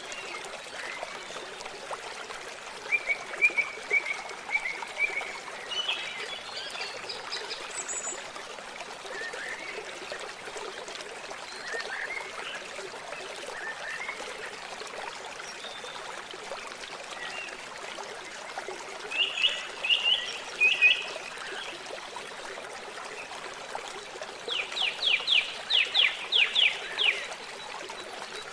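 Water trickling steadily, with birds calling over it: scattered short chirps, a louder cluster of calls about two-thirds of the way through, and near the end a quick run of about nine loud repeated notes.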